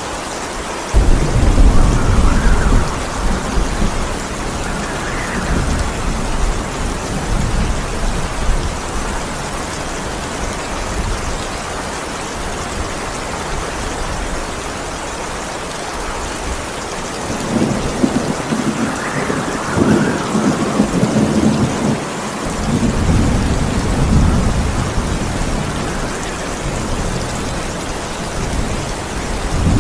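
Steady heavy rain with thunder: a loud rolling rumble breaks in about a second in and fades over several seconds, and a second long rumble rolls from a little past the middle for several seconds.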